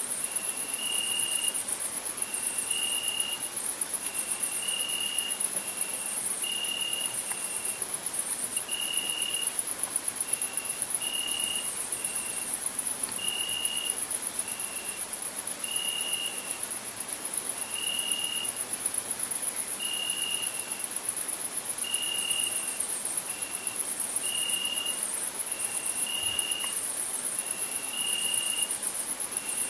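Crickets chirring in a steady, very high-pitched pulsing chorus, with a separate short clear note repeating about once a second, lower in pitch.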